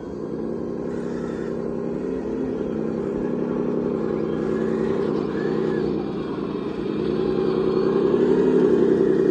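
Radio-controlled heavy-equipment model running: a steady motor whine with brief small rises in pitch, growing louder toward the end.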